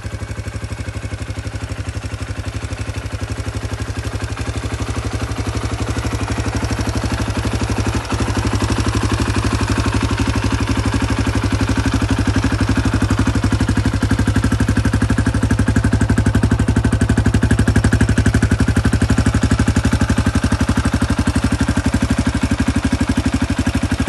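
2005 KTM 250 EXC-F enduro motorcycle's single-cylinder four-stroke engine running steadily, a little louder from about eight seconds in.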